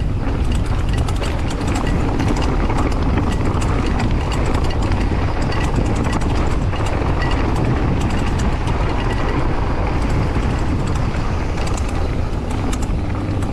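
Mountain bike descending a rough downhill trail at speed, heard from the rider's GoPro. Wind rushes on the microphone, the tyres run on dirt and rock, and the bike rattles with many small clacks.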